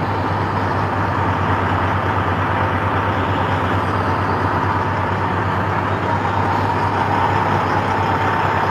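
Diesel engine idling steadily beside a parked semi truck, an even low pulse with a steady whine above it.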